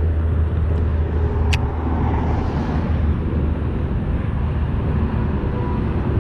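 Steady traffic noise from a nearby interstate mixed with low wind rumble on the microphone, with a single sharp click about a second and a half in.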